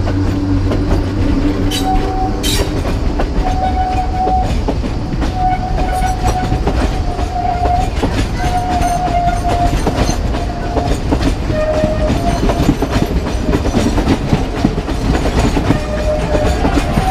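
Ferrocarril de Sóller narrow-gauge electric train running, its wheels clicking over the rail joints, with a string of short high squeals from the wheels as it rounds a curve.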